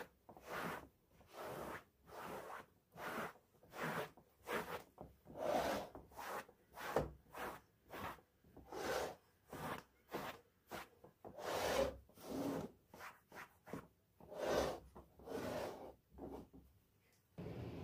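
Repeated back-and-forth rubbing strokes of a cloth or brush scrubbing a surface, about one and a half strokes a second, stopping near the end.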